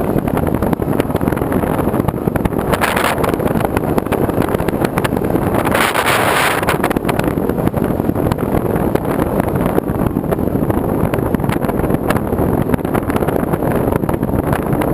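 Loud, steady wind buffeting on the microphone, with a dense scatter of small ticks throughout and brief swells about three and six seconds in.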